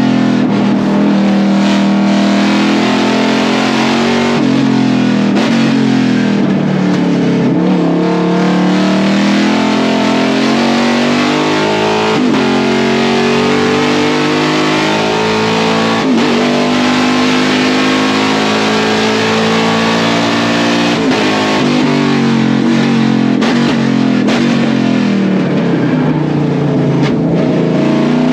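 Ford Mustang race car's 5.2-litre Coyote Aluminator V8, heard from inside the cabin at racing speed, its note climbing under acceleration and dropping off for corners over and over, with music mixed in underneath.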